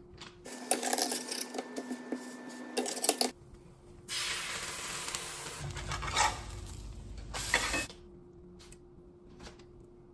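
Meat-lined tortilla tacos frying in a hot pan: a sizzling hiss in two spells of a few seconds each, each starting and stopping abruptly, with a faint steady hum between.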